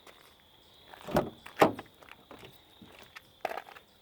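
A few short knocks and clunks inside a car, two about a second and a half in, the second the loudest, and softer ones near the end.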